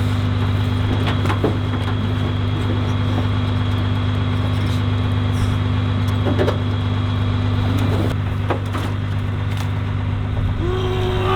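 A vehicle engine idling steadily, with a few short knocks over it.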